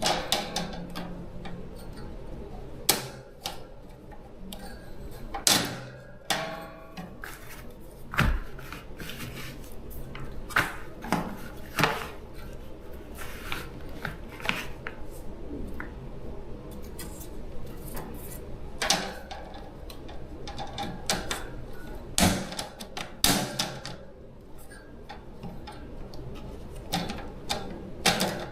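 Irregular clicks and knocks of small hard parts and tools being handled, a few louder knocks standing out, over a faint steady low hum.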